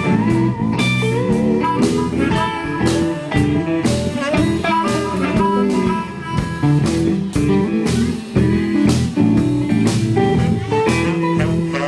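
Live rock band playing an instrumental jam: electric guitar lead lines with vibrato over bass and drums.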